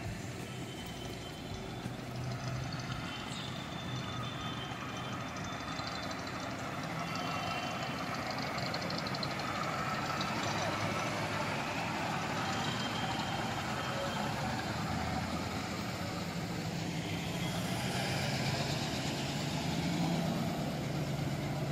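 Vintage cars' engines running as the cars drive past one after another, a steady engine hum that grows louder near the end as a car passes close.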